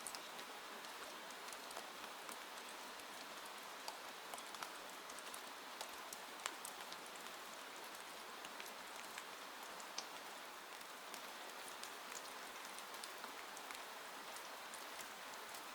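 Steady rain hissing, mixed with scattered sharp pops and clicks from a crackling fireplace; the sharpest pop comes about halfway through.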